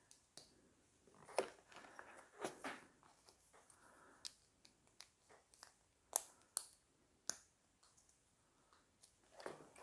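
Plastic LEGO pieces clicking and being snapped together by hand: scattered sharp clicks and light rustling as parts are handled.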